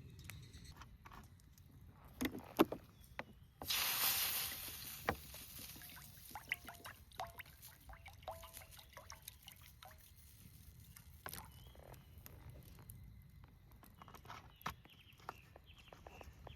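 Clinks and light knocks of camp cookware being handled, with a sudden rushing hiss about four seconds in that fades over a second or so, like liquid poured or food hitting a hot pan.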